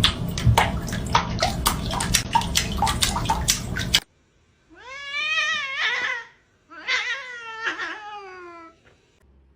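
A cat yowling twice in long drawn-out meows that rise and fall in pitch. These follow a few seconds of clattering, rustling noise with many sharp clicks that stops abruptly.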